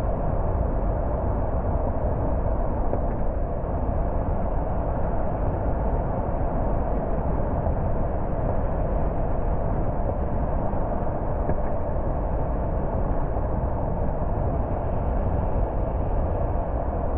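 Car driving along a road: steady tyre and road noise with the engine underneath, unchanging.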